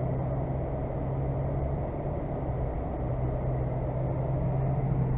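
A vehicle driving along: a steady low engine drone with a continuous rush of road and tyre noise.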